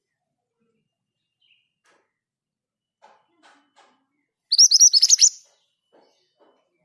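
Scarlet minivet (mantenan gunung) singing one quick rolling phrase of about eight rapid high notes, lasting under a second, a little past halfway in. A few faint soft clicks come before and after it.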